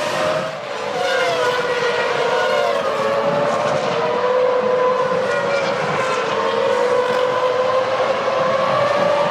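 Formula One V10 engines running at high revs, several pitched engine notes held nearly steady, with a brief dip in level about half a second in.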